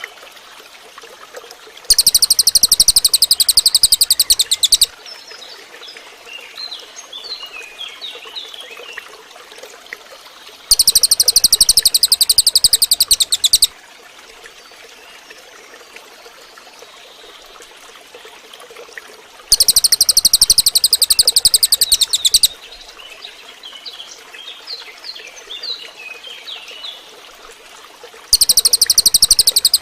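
Cililin bird giving a loud, fast, buzzy trill lasting about three seconds. It repeats at even intervals of roughly nine seconds: three times, with a fourth starting near the end. Softer short chirps come between the trills, over a steady trickle of running water.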